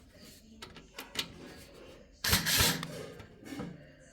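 Small clicks and knocks of a screwdriver working a motherboard screw loose in a PC case. A short, louder burst of scraping noise comes a little past two seconds in.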